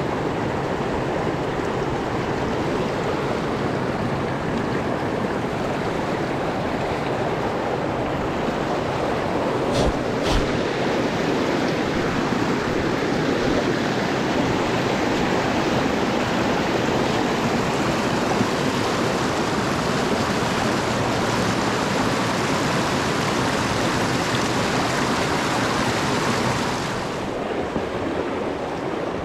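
Mountain stream water rushing steadily over rocks. There are two brief knocks about a third of the way in, and the rush dims a little near the end.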